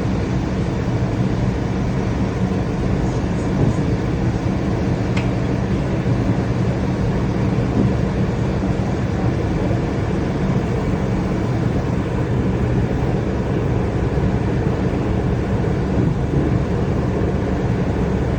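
A moving train running steadily: a continuous rolling rumble with a low, even hum.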